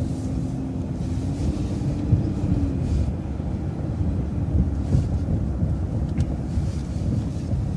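City transit bus driving: a steady low engine and road rumble heard from on board. A faint whine rises slightly about a second and a half in and fades out about three seconds in.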